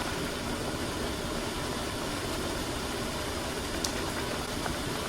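Budae jjigae (army sausage stew) boiling hard in its pot: a steady bubbling noise with a low rumble underneath.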